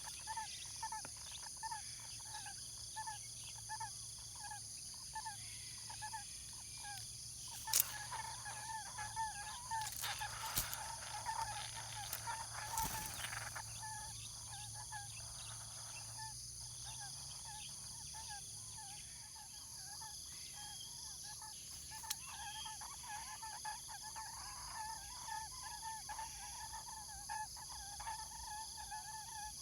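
A bird calls one short note over and over, about three times a second, over a steady high insect drone. A few sharp knocks come in the middle, the loudest about eight seconds in.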